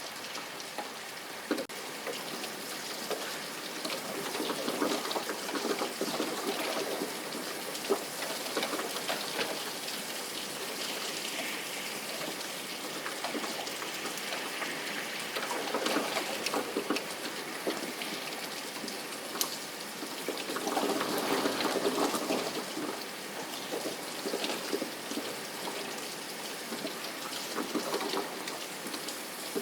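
Steady rain falling, a dense hiss of many small drops that swells louder a few times.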